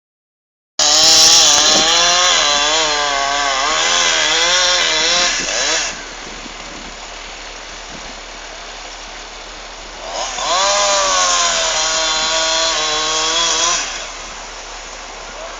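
Two-stroke chainsaw running at high revs in two bursts of about five and four seconds, its pitch wavering and bending as the chain bites into the trunk, dropping back to a quieter run between and after the bursts.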